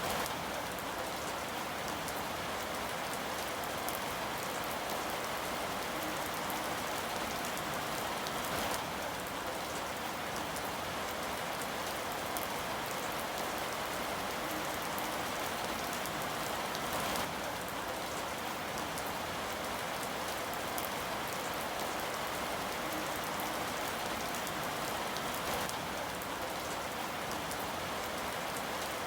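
Steady rain falling on a surface, an even hiss with scattered drop patter.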